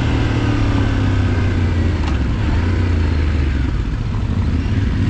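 Adventure motorcycle engine running steadily while the bike rides over a loose gravel track, with an even rush of road and wind noise over the engine's low hum.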